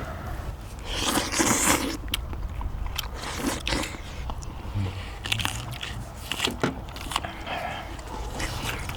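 Close-miked eating sounds: biting and chewing of spicy cheese dak-galbi, with irregular bites and sharp clicks, the loudest bite about a second in, over a steady low hum.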